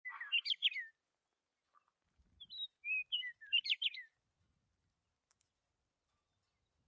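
Bird chirping: two short bursts of quick up-and-down chirps, the first at the very start and the second about two seconds in, with quiet between and after.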